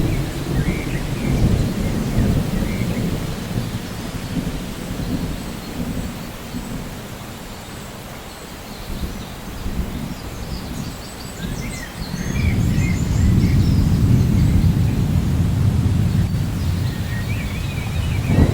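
Rainforest rainstorm: steady rain with low rolling thunder that eases off midway and swells again about two-thirds of the way through. A few short bird chirps come over it near the start, in the middle and near the end.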